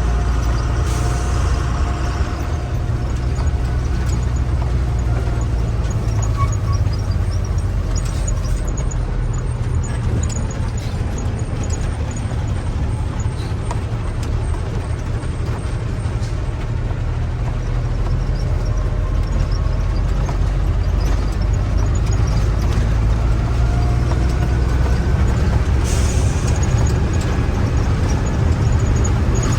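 Truck engine running steadily under way, a continuous low drone with faint rattles, and short hisses about a second in and again near the end.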